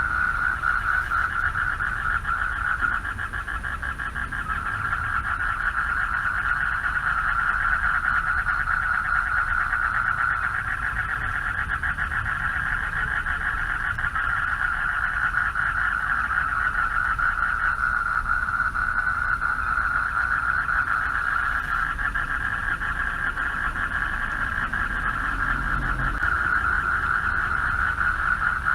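A chorus of male frogs calling for mates from a pond: many rapid pulsed calls that merge into one continuous trilling din, easing slightly a few seconds in and then swelling again. A low, steady rumble runs underneath.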